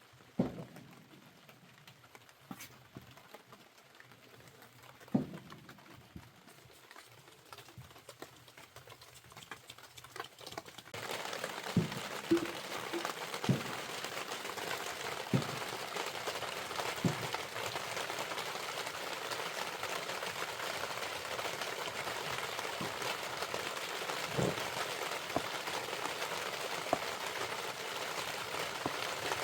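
Scattered knocks and clicks over a faint background, then about a third of the way through, steady rain on a surface starts abruptly and keeps on, with a few thuds through it.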